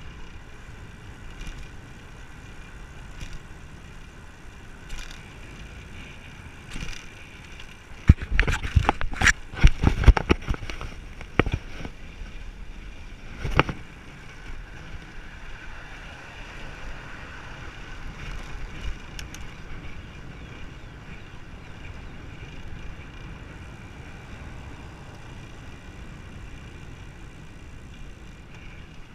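Road bicycle riding along, with wind on the microphone and tyre and road noise. Several seconds in comes a burst of loud rattles and knocks, with one more knock shortly after.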